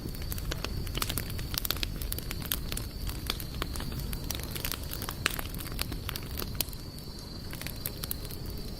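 Wood fire crackling, with many irregular sharp pops and snaps over a steady low rumble. A thin, steady high-pitched tone runs alongside.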